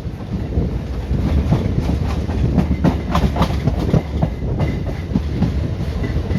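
Indian Railways ICF passenger coach running along the track: a loud, steady rumble with rapid clattering of the wheels over rail joints, busiest about halfway through.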